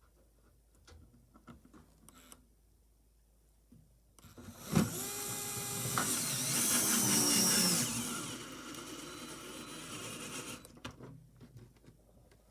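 Electric drill/driver running for about six seconds, starting about four seconds in, driving a wood screw; loudest in the middle, then easing off before it stops.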